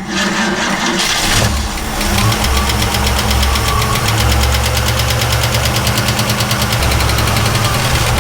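1967 Ford Mustang engine running at a steady idle, freshly started and not yet warmed up, with a fast, even ticking on top of the hum. The owner puts the tick down to a valve on one side, which could be a loose valve.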